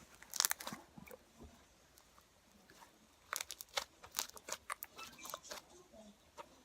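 Homemade slime being squished and worked by hand, giving runs of quick clicks and pops: a short burst at the start and a longer one from about three seconds in.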